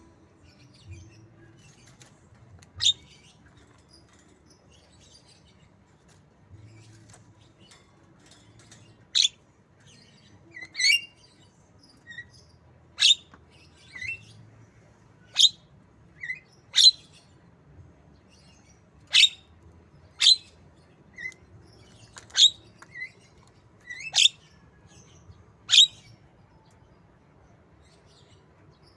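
Javan myna giving short, sharp, high calls in the manner of a white-rumped shama, about a dozen in all, one to two seconds apart, starting a few seconds in.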